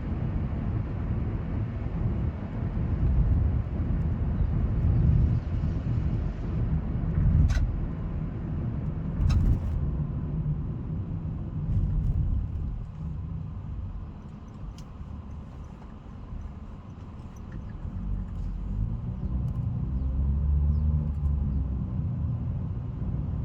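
Cabin noise inside a Honda Amaze cruising on the highway: a steady low rumble of tyres and engine that eases for a few seconds past the middle, with a couple of brief clicks.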